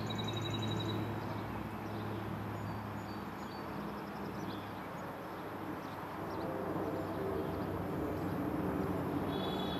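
A train at a station: a steady low engine hum over rail and running noise, with a fuller layered tone building from about six seconds in and a brief high squeal near the end.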